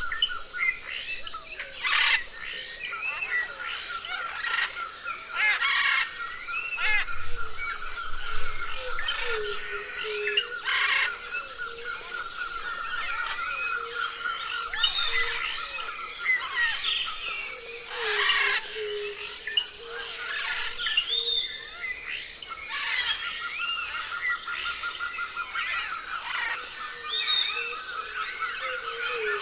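Parrots chirping and chattering, many short rising and falling calls overlapping, with a few louder sharp calls. Underneath runs a steady rapid trill and a constant thin high tone.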